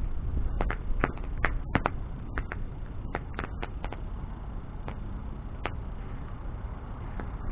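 Wood bonfire burning, a steady low rush of flame with irregular sharp crackles and pops from the burning wood, thicker in the first few seconds and sparser after.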